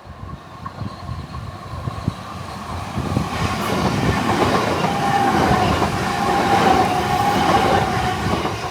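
Southeastern electric multiple-unit train moving along the platform. The rumble and wheel clatter build to a peak in the second half, with a steady whine near the loudest point.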